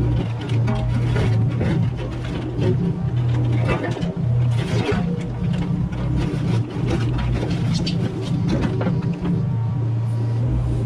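Mini excavator's diesel engine running steadily under work, with the bucket knocking and scraping on debris and ground.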